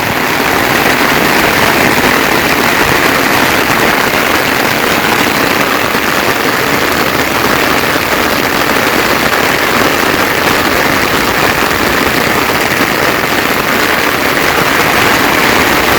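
Rain falling steadily, an even, continuous hiss with no break or change.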